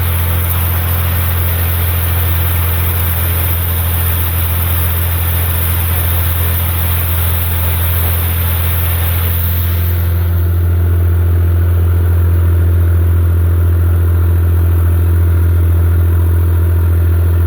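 Massey Ferguson 245's Perkins three-cylinder diesel engine running steadily under working load. About ten seconds in, a high hiss drops away and the engine note comes through more clearly.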